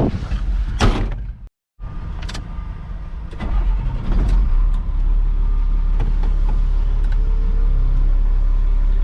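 Tow truck's engine running as it pulls away. A steady low rumble builds about three and a half seconds in, after a few clicks and knocks and a brief dropout in the sound.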